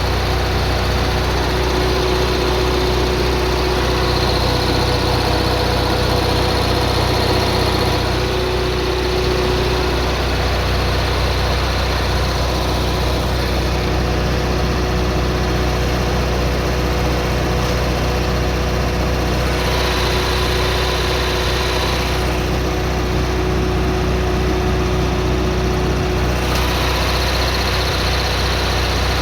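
Kohler Confident 5 generator engine running steadily at constant speed: a low, even hum with a faint steady whine above it.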